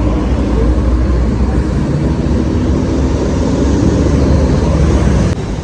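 Intercity bus passing close by, its diesel engine and tyres giving a steady heavy rumble.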